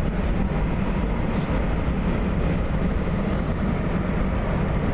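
Airbus A320 jet engines running, a steady low rumble that holds an even level throughout.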